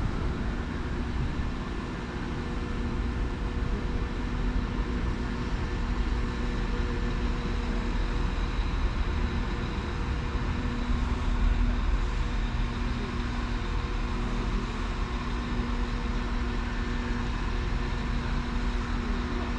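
A train standing at a station, running steadily: a low rumble with a steady hum.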